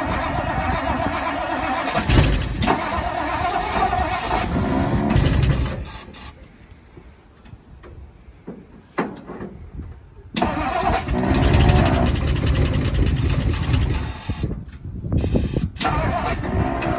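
1960 Ford Sunliner V8 firing on starting fluid sprayed into its carburetor. It runs for about six seconds and dies, catches again suddenly about ten seconds in, and cuts out and restarts once more near the end. It keeps stalling because it runs only while fluid is fed to it.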